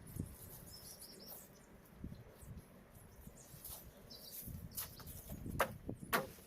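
Faint bird chirps over low background rumble, with three sharp knocks near the end, the last two about half a second apart.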